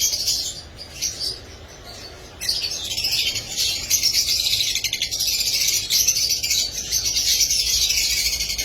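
A flock of lovebirds chirping and chattering: a dense, high-pitched twittering that thins out for a second or two near the start, then picks up again.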